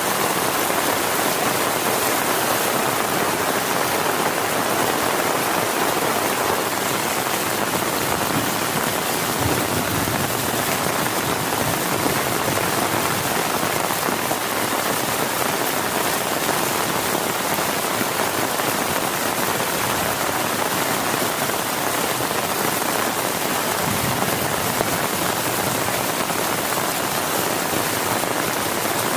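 Heavy rain falling steadily on a tent, a dense and even hiss of drops with no break.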